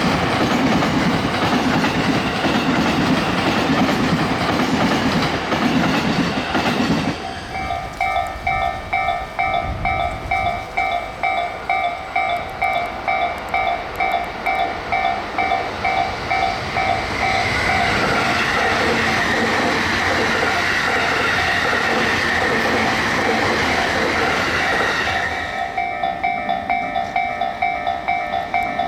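A train runs past over the level crossing, clattering for the first seven seconds; then the crossing's warning bell rings on its own, an even ding-ding of about two strokes a second that signals the barriers are still down. From about 17 s another train rushes through beneath the bell, and near the end the bell rings alone again.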